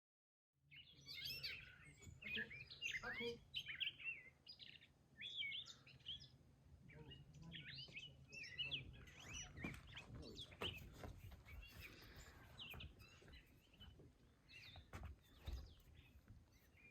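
Small songbirds chirping and twittering in many short, quick calls, over a low steady hum. The sound cuts in abruptly just after the start.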